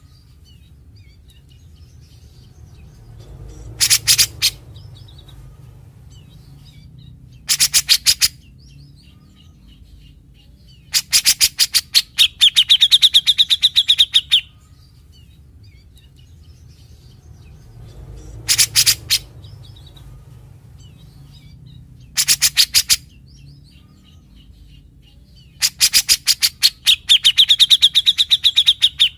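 A cucak jenggot (brown-cheeked bulbul) singing in short bursts of very rapid chattering notes. It sings six bursts, and the two longest run into a high, steady whistle.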